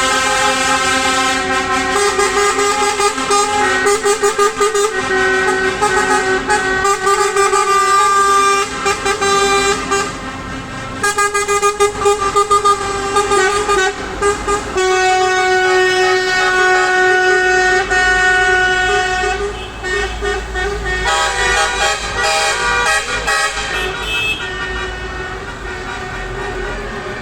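Truck air horns sounding almost without a break, several pitches at once: long held blasts, with stretches of rapid repeated toots. A low truck engine rumble comes in underneath in the second half.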